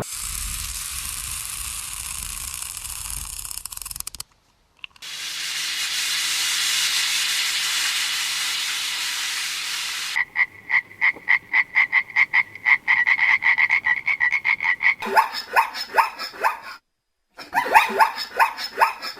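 Animal calls in quick pulsed series, several a second, like croaking, starting about ten seconds in after two stretches of steady hiss-like noise separated by a short gap.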